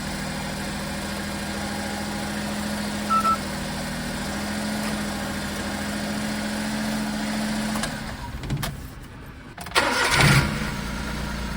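Car engine idling steadily, then switched off about eight seconds in. Roughly two seconds later the starter cranks and the engine catches and idles again.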